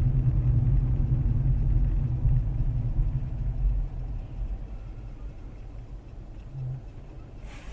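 Low, steady rumble of a car on the move, engine and road noise as picked up by a dashcam inside the cabin. It grows quieter about halfway through.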